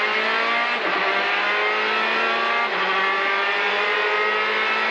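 Peugeot 208 T16 R5 rally car's turbocharged 1.6-litre four-cylinder engine under full acceleration, heard from inside the cabin. Its pitch climbs steadily, broken by two quick upshifts, just under a second in and again about halfway through.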